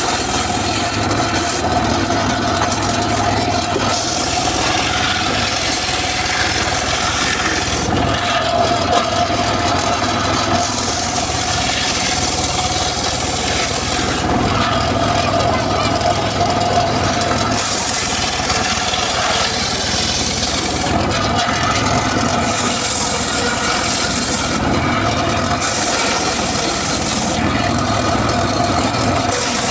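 Homemade circular saw running steadily and cutting mahogany, with a constant whine. A high hiss of the blade in the wood swells and fades about every few seconds as cut after cut is made.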